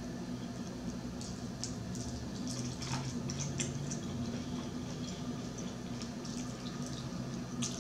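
Chewing fried chicken close to the microphone: scattered small wet clicks and smacks of the mouth, over a low steady hum.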